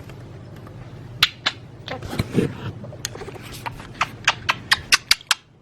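A run of sharp little clicks and taps, a few at first and then about three or four a second: a budgie pecking and tapping at a plastic toy.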